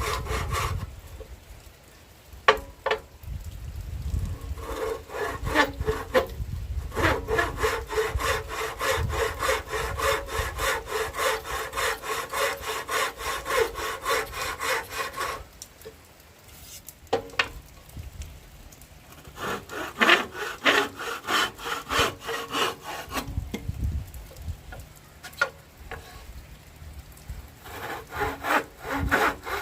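Hand saw cutting wood in bouts of quick, even back-and-forth strokes, with short pauses between bouts.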